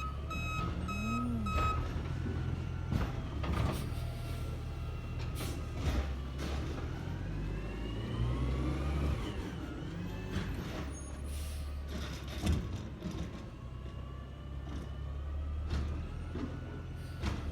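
Garbage truck reversing: its backup beeper pulses rapidly for the first couple of seconds and then stops, over the steady low rumble of the engine. Midway a rising whine climbs for a few seconds, and sharp clanks and knocks come now and then, the loudest about two-thirds of the way through.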